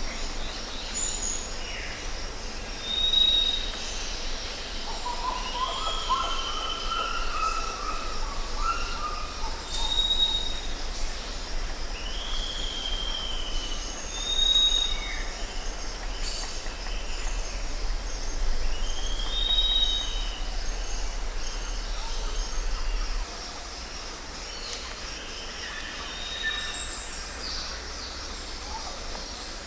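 Tropical forest ambience: several birds calling again and again with short high whistles and falling whistled notes, one warbling phrase lower down, over a steady insect drone. A low hum beneath drops out about two-thirds of the way through.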